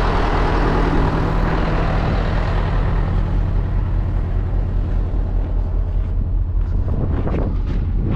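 Road-train prime mover's diesel engine idling steadily. A broad hiss over it fades out over the first three seconds.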